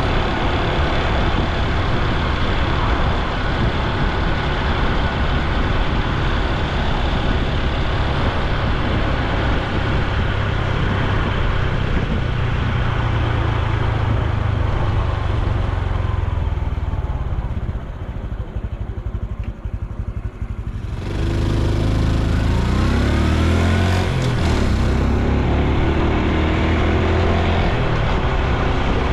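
Honda Super Cub C125's single-cylinder engine and exhaust while riding, over a steady rush of wind and road noise. Past the middle it drops quieter for a few seconds as the bike slows, then picks up again with rising engine pitch as it accelerates away.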